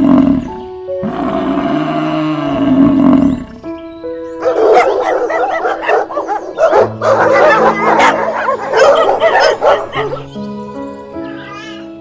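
Animal calls over background music: two long drawn-out calls, then a busy stretch of rapid, overlapping calls from about four seconds in.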